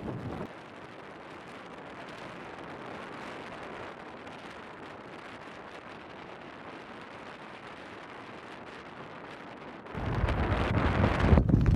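Snowstorm wind: a steady hiss of wind. About ten seconds in, a gust hits the microphone and turns into a loud low rumble that keeps building.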